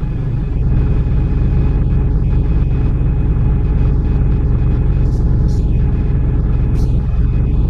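A steady, loud low mechanical rumble, with a few faint high clicks in the second half.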